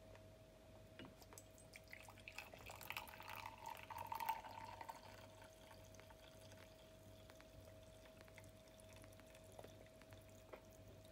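Water poured into a mug, trickling and splashing for about three seconds starting some two seconds in, over a faint steady hum.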